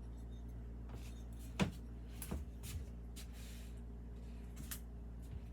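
A few light clicks and knocks of glazed ceramic pieces being handled and set down, the sharpest about a second and a half in, with a brief soft rustle in the middle, over a steady low hum.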